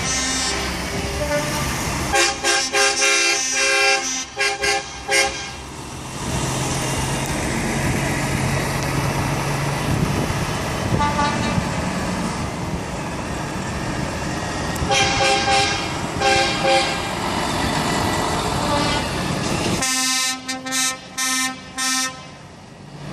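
Trucks sounding their horns in runs of short, rhythmic blasts as they drive off. There are three main bursts, about two seconds in, around fifteen seconds, and near the end, with diesel engines running steadily in between.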